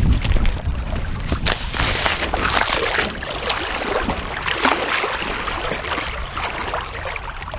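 River water splashing and trickling close to the microphone, with an irregular crackle of small splashes.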